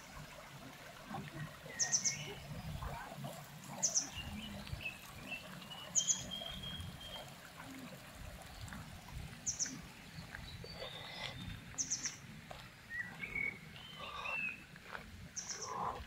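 Woodland birds singing: one bird gives a short high call about every two seconds, with other birds' softer song notes in between.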